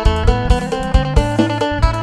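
Isan phin music: quick plucked lute melody over a bass line and a steady drum beat.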